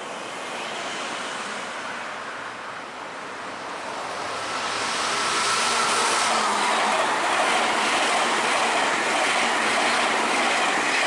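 Meitetsu electric train running into or through the station, its rail noise building from about four seconds in and staying loud, with a faint steady whine for a few seconds.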